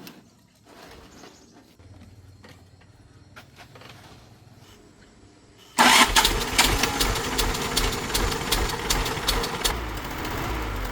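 Quiet for the first few seconds, then about six seconds in a car engine starts abruptly and keeps running with a fast clatter of ticks.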